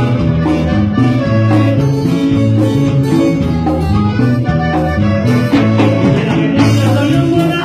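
Latin dance music played by a band, with bass, guitar and percussion keeping a steady beat.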